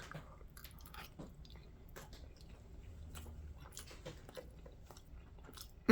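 A person eating a mouthful of cold thin spaghetti in sauce: faint, soft chewing with scattered small mouth clicks.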